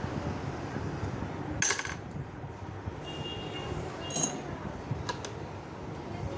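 A few sharp metallic clinks of small metal objects, the loudest about one and a half seconds in and lighter ones around four and five seconds, over a steady low rumble.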